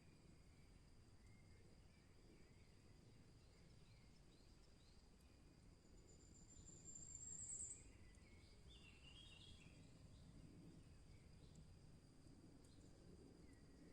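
Faint forest ambience with distant birdsong: scattered soft chirps, and about halfway a high, thin trill that grows louder for a second or two and then stops abruptly. A steady faint high tone, like an insect, and a low rumble run underneath.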